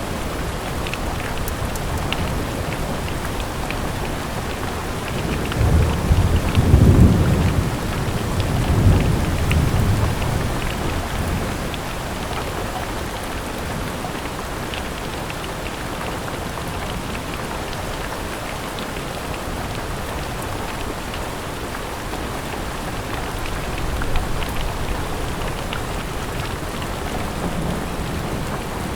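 Steady rain hiss with individual drops ticking. A low rumble of thunder swells from about six seconds in, rolls twice and dies away by about eleven seconds in.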